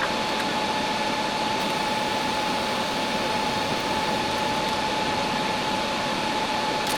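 DC TIG welding arc on stainless steel at about 50 amps, running steadily as an even hiss with a faint constant whine.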